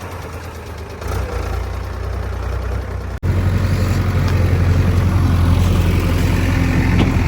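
Heavy diesel engine running steadily at low revs. About three seconds in the sound breaks off for an instant and comes back louder and deeper.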